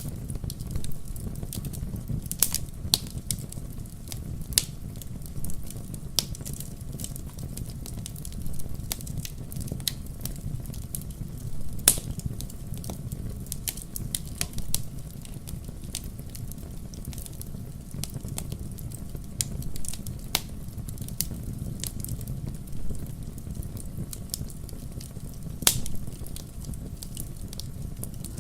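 Fire in a fireplace crackling over a steady low rumble, with irregular sharp pops. A few louder pops stand out, the sharpest about twelve seconds in.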